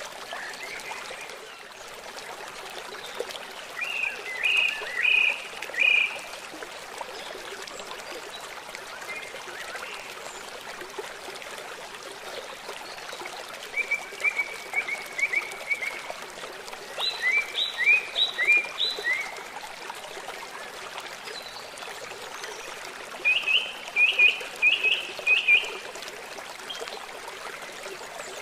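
Running stream water, a steady rush, with a songbird singing four phrases of quick repeated high chirps over it.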